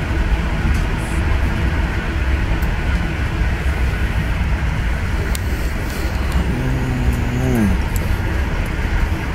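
Steady running noise inside a moving passenger train carriage: an even low rumble of the wheels on the track. A short voice sound, held for about a second, comes about six and a half seconds in and falls in pitch at its end.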